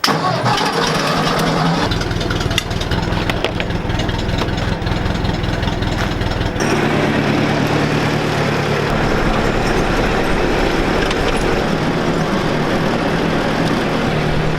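Tractor engine running steadily, with scattered clicks and knocks over the first few seconds. The engine note changes about six and a half seconds in.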